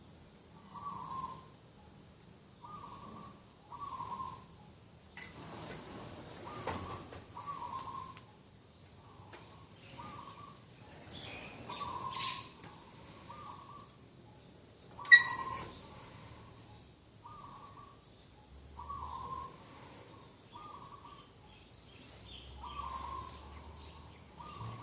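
Doves cooing: short coos repeated about once a second. A few sharp high chirps from other birds cut in, the loudest about fifteen seconds in.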